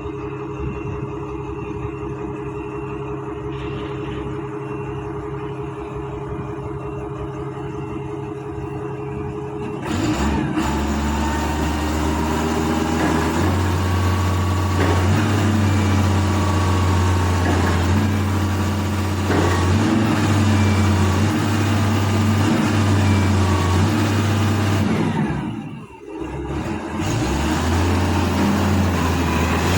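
Isuzu 6BG1 inline-six diesel engine of a 7-ton forklift, idling steadily for about ten seconds, then running louder at higher revs with its pitch shifting for the rest, dropping away briefly near the end.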